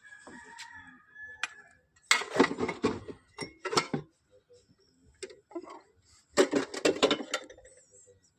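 Metal tools and parts clinking and rattling as they are handled, in two busy bursts of quick knocks: one about two seconds in, another about six and a half seconds in.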